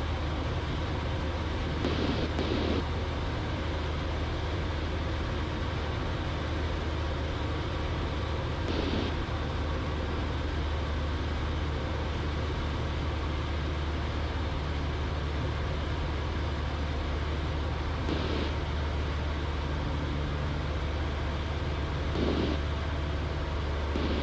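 Cessna 172's engine and propeller droning steadily in flight, heard from the cockpit, with a few brief bursts of hiss scattered through.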